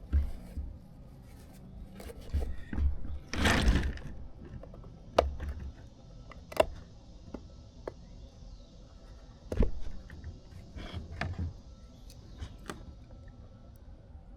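Hands working with small parts: scattered clicks and knocks, a brief scrape about three and a half seconds in, and a rustle near the end.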